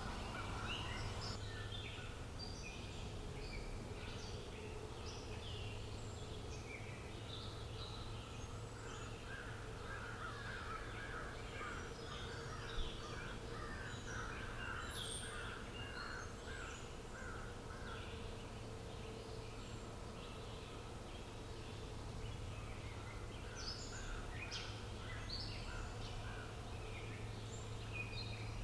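Several wild birds chirping and calling at once, with many short high notes and a run of quickly repeated lower notes partway through, over a steady low background hum.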